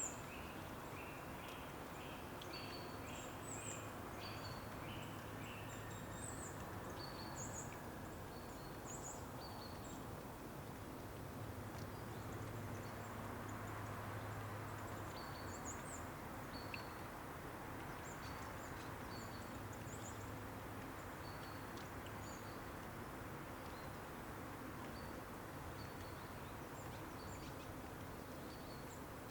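Outdoor nature ambience: a steady rushing background with small birds chirping, short high calls scattered throughout. A rapid, evenly repeated call runs for the first several seconds.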